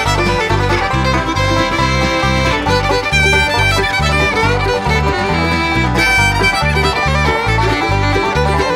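Bluegrass band playing an instrumental break, the fiddle out front over banjo, guitar and a Fender Precision bass keeping a steady pulsing beat.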